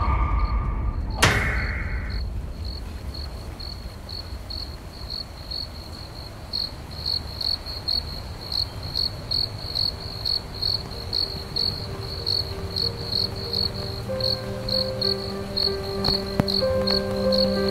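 Crickets chirping steadily at night, about three chirps a second, used as a sound effect. Two thuds come in the first second and a half, and soft sustained music comes in during the second half.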